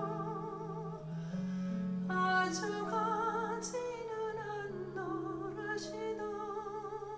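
A vocal song played back through Wharfedale Linton Heritage loudspeakers: a singer holds long notes with a wide vibrato over sustained instrumental accompaniment, with a few sharp struck notes about two and a half, three and a half, and six seconds in.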